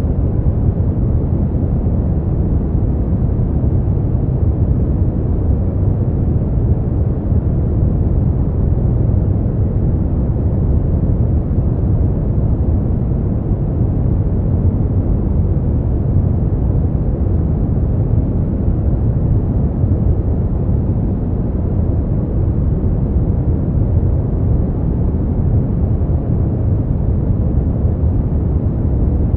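Steady noise track for sleep, sold as white noise but deep and muffled, its energy in the low range with nothing in the high end; unchanging, with no events.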